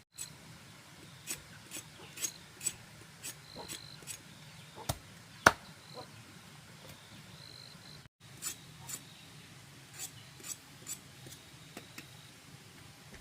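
Irregular sharp knocks and taps of hand-tool work on bamboo, about one or two a second, with one much louder knock about five and a half seconds in.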